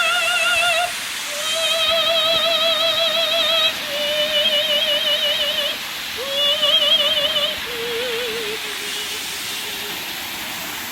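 Operatic soprano voice singing a slow phrase of long held notes with wide vibrato, each about two seconds, stepping gradually lower, over the steady rush of a waterfall. The singing stops about nine seconds in, leaving the waterfall alone.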